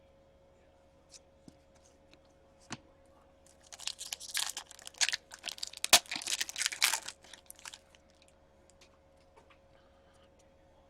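Trading card pack wrapper torn open and crinkled for a few seconds, with one sharp snap partway through, after a few light clicks of cards being handled.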